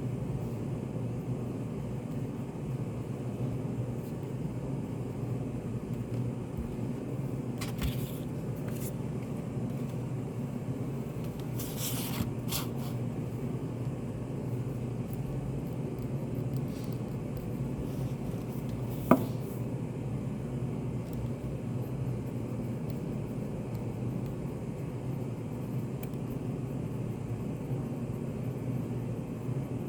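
Steady low hum of a study café's room ambience, with brief faint rustles about 8 and 12 seconds in and one sharp click a little past the middle.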